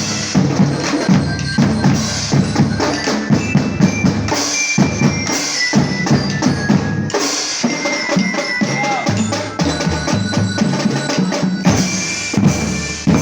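A school marching drum band playing: bass drums and snare drums in a steady beat, with a high melody line above the drums.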